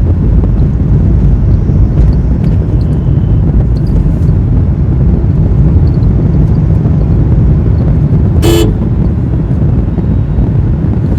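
Steady low rumble of road and wind noise from a vehicle moving through traffic, with one short vehicle horn toot about eight and a half seconds in.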